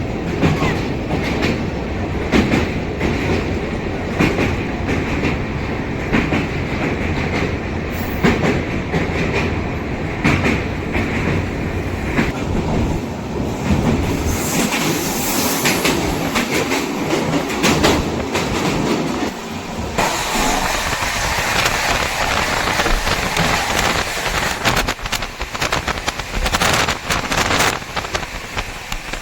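Poorva Express passenger train running at speed: a steady rumble of wheels on rails with repeated clacks over the rail joints. The noise turns hissier about twenty seconds in.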